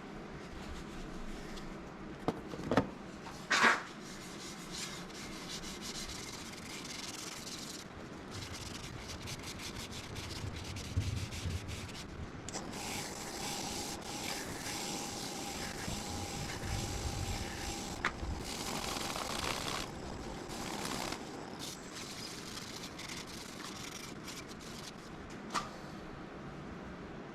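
Abrasive rubbing against a mesquite bowl as it is sanded on the lathe: a steady rough scratching, with a few sharp knocks in the first few seconds.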